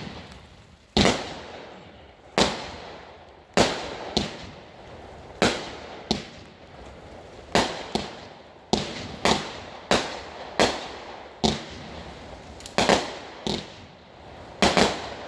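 Raccoon Fireworks 'Christmas Eve' 15-shot 200 g firework cake firing shot after shot: sharp bangs a second or so apart, quickening to under a second apart in the second half, each followed by a fading tail.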